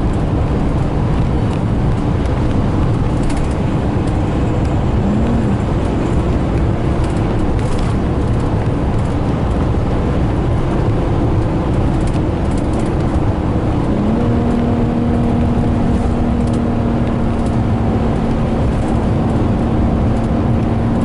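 Vehicle driving: a steady low rumble of road and wind noise, with an engine hum that glides up about 14 seconds in and then holds one pitch.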